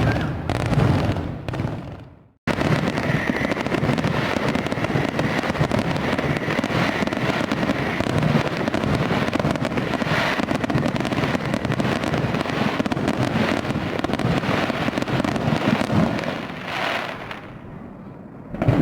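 Fireworks going off: a loud burst that cuts off suddenly, then a dense run of rapid crackling and bangs that thins out near the end, with another loud bang right at the end.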